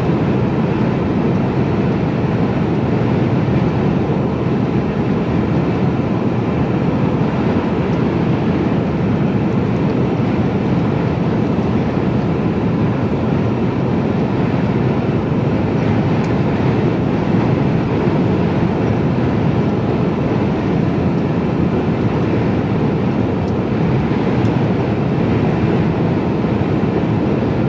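Steady engine drone and road noise inside the cab of a Mercedes-Benz Actros lorry cruising at about 53 mph, even throughout with no separate events.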